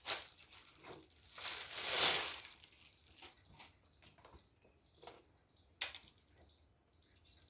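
Packaging being handled and crinkled during unpacking, a rustling swell that is loudest about two seconds in, followed by a few light clicks and knocks.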